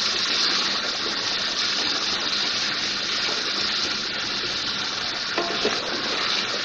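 Mutton pieces with ginger-garlic paste and ground spices sizzling in hot oil in a pot while being stirred with a wooden spatula: the bhuna stage of aloo gosht. A steady sizzling hiss, with a couple of light knocks about five and a half seconds in.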